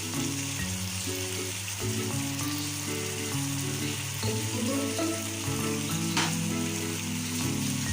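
Chicken pieces with spices and yogurt sizzling steadily in hot oil in a pan, with a brief knock about six seconds in. Background music plays underneath.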